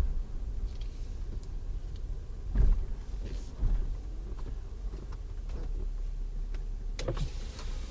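Low rumble of a car rolling slowly, heard from inside the cabin, with scattered light clicks and a couple of knocks.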